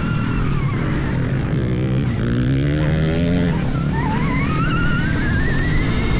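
Stark Varg electric motocross bike's motor whining under load over a heavy low rumble. The whine drops, then climbs steadily from about four seconds in as the bike accelerates.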